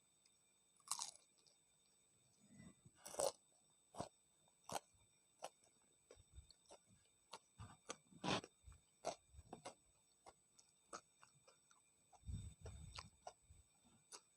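A person eating tempe mendoan (battered fried tempeh) close to the microphone: a string of short crunchy bites and chewing clicks, loudest about a second in, around three seconds in and past eight seconds. A low, muffled rumble comes near the end.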